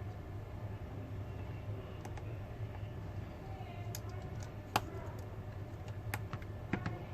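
A few sharp, irregular clicks and taps of small parts and tools being handled on a repair bench as a smartphone is put back together, over a steady low hum.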